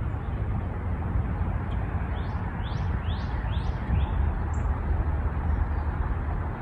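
A small bird chirping a quick run of five high notes, each sweeping up and back down, then one fainter chirp, over a steady low outdoor rumble.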